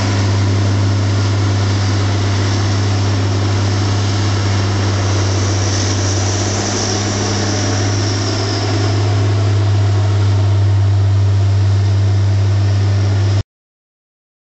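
A machine's engine running steadily with a deep, even hum. It gets slightly louder about two-thirds of the way through, then cuts off abruptly near the end.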